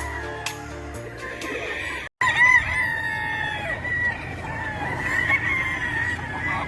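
Several gamefowl roosters crowing, their drawn-out calls overlapping one another, with a brief break in the sound about two seconds in.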